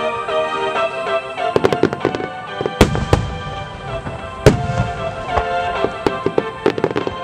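Large aerial firework shells bursting in quick succession, with three heavy booms about three and four and a half seconds in, and bursts of smaller crackling bangs between them. Music plays steadily underneath.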